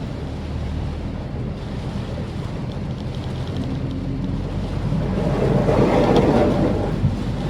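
Maruti Suzuki Swift Dzire driving on a rain-wet road: a steady low hum of engine and tyre noise, with a rushing wash that swells and fades about five to seven seconds in.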